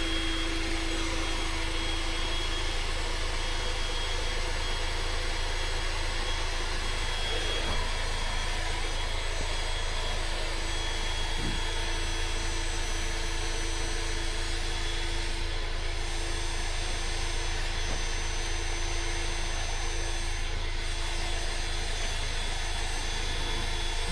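Electric air pump running steadily as it inflates an air mattress, a continuous whirring drone.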